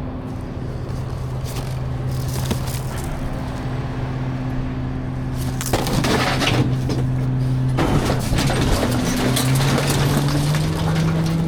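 Garbage truck's diesel engine running steadily, joined about six seconds in by loud rattling, cracking and breaking clatter of trash; the engine's pitch rises near the end.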